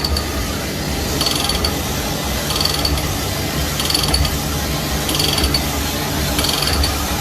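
A machine running with a steady low hum, broken by short bursts of rapid clicking that repeat about every 1.3 seconds, six times.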